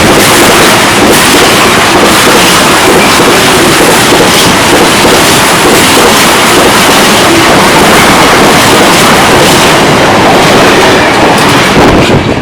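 A train passing close by at speed: a loud, continuous rush of wheel and air noise that drops away sharply at the very end as the train clears.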